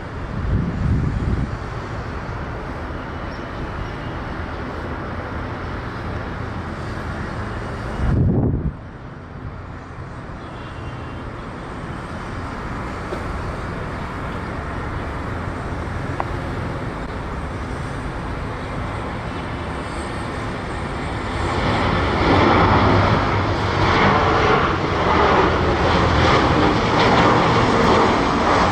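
Jet airliner engines running at an airport, a steady noise that grows clearly louder about two-thirds of the way through. A brief low rumble stands out about eight seconds in.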